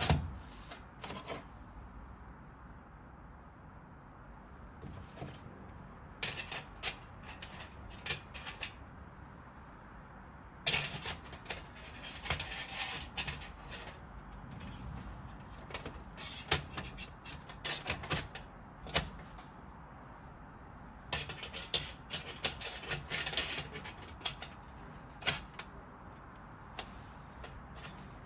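Several bursts of light clicking and clattering of small hard objects, with quieter stretches between.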